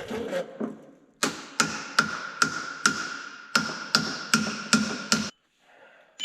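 Steel hammer blows on the drive chain's master link in a skid steer's chain case: about ten sharp, ringing metallic strikes in two runs with a short pause between, knocking the master link out to free the chain.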